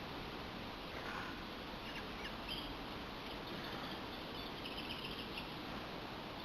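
Small garden bird chirping faintly: a few short calls about a second in and a quick run of high notes near the end, over a steady background hiss.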